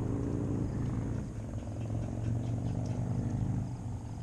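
A watercraft engine droning steadily as a low hum, swelling a little in the middle and easing near the end; it sounds like a jet ski.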